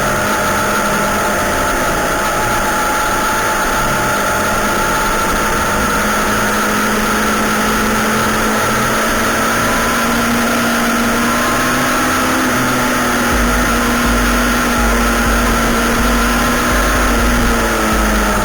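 Yamaha YZF R6 inline-four engine running at a steady engine speed, its pitch rising slightly about two-thirds of the way through and dropping near the end.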